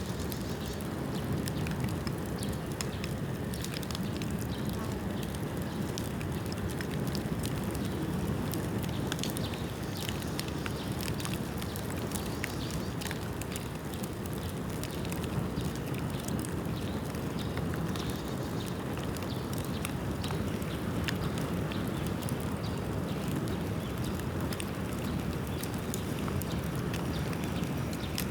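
Bamboo bonfire burning: a steady low rushing of flame with frequent small crackles and pops scattered throughout. The bamboo is still wet from rain.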